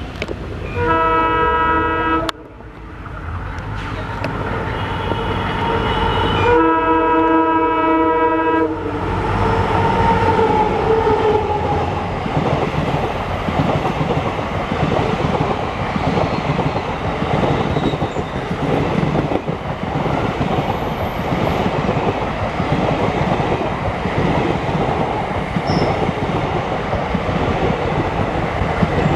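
Indian Railways locomotive horn sounding twice, a short blast about a second in and a longer one from about five to nine seconds in. Then a train runs past with a steady rumble and wheel clatter.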